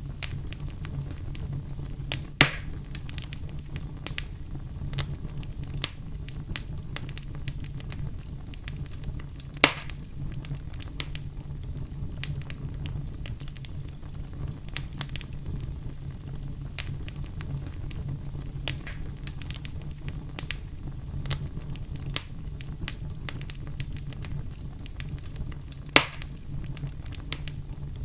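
Fireplace fire crackling steadily over a low rumble, with scattered small snaps and three sharper, louder pops.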